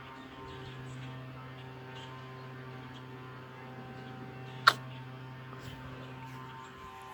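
A steady low hum with several even overtones, which stops shortly before the end. About two-thirds of the way through there is a single sharp click, the loudest sound here.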